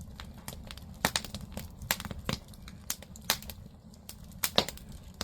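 Firewood burning in a Korean agungi, a traditional wood-fired firebox, crackling with irregular sharp pops over a low steady rumble.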